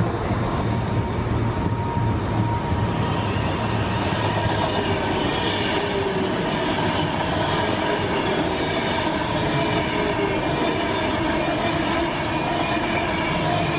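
A non-stopping train passing through a station at speed: a steady, loud rumble of wheels on rail, with faint steady whining tones over it.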